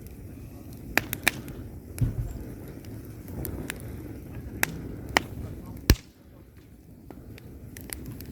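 Wood fire of burning logs in a fireplace crackling: irregular sharp pops over a low, steady rumble of flames. A quick cluster of three pops about a second in, and the loudest single pop about six seconds in.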